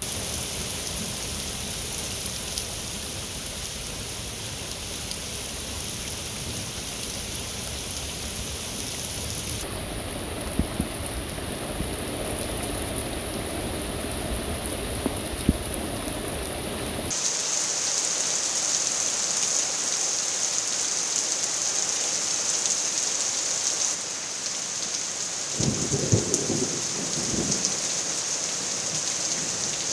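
Heavy thunderstorm downpour: rain pounding on trees, grass and pavement in a dense, steady hiss, with thunder rumbling low. The rain's tone changes abruptly a few times, and a burst of low rumbling comes near the end.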